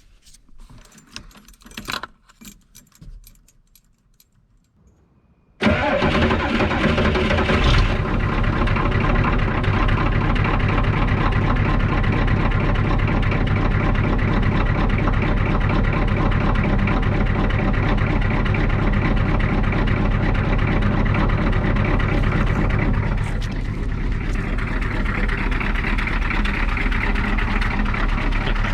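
A few faint clicks and knocks, then about six seconds in a diesel vehicle engine starts abruptly, flares briefly and settles into a steady idle that runs on, easing slightly in level near the end.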